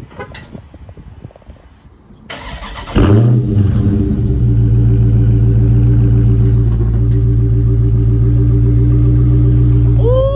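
Dodge Scat Pack's 6.4-litre Hemi V8 remote-started while still warm: about two seconds in the starter cranks briefly, the engine catches with a loud rev flare, then settles into a steady idle.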